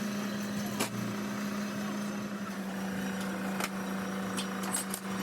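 A machine runs with a steady, even hum, while sharp metallic clicks and taps come at irregular moments.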